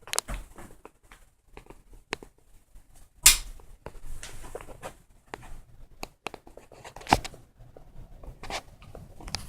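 Irregular knocks, clicks and scuffs from someone moving about in a small room, most likely footsteps and handling of the camera; the loudest knocks come about three seconds in and again about seven seconds in.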